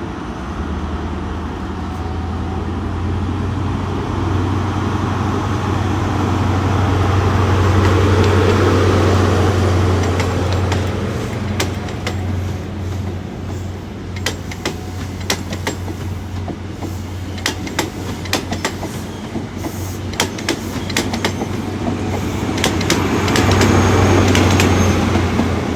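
A Great Western Railway Castle-class HST pulls out. The diesel engines of its class 43 power cars drone steadily, louder as the leading power car passes early on and again as the rear power car passes near the end. In between, the coach wheels clack over rail joints and points.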